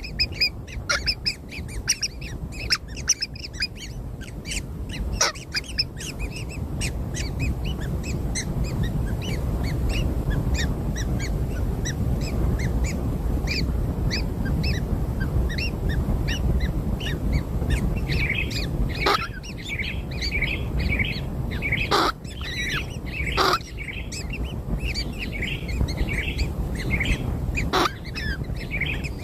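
Baby birds chirping busily in many short, high peeps, with a few louder sweeping calls in the second half, over a steady low rumble.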